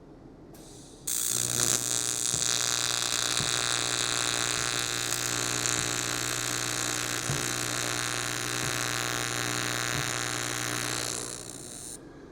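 Electric welding arc on an aluminum fuel tank: a steady buzzing hum with hiss. It strikes about a second in, holds for roughly ten seconds, and stops near the end.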